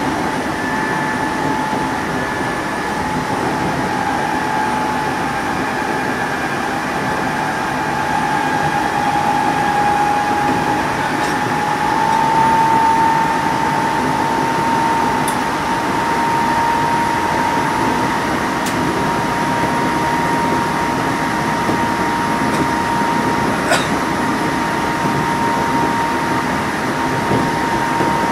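Odakyu 8000-series electric train, an unrenovated car with field-chopper control, running between stations as heard from on board. A steady rumble with a steady whine that edges slightly up in pitch about halfway through, and a few faint clicks.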